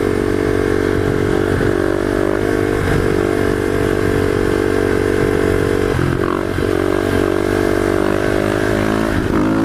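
Supermoto motorcycle engine running under way at fairly steady revs, its pitch dipping briefly a few times (about a second and a half in, near three seconds, and around six seconds). Wind noise rushes over the microphone.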